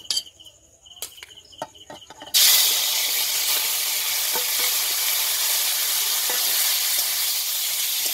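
Marinated chicken pieces dropped into hot oil in a karahi: a sudden loud sizzle starts about two seconds in and goes on steadily as the chicken fries. Before it, crickets chirp in an even rhythm, with a few light clicks.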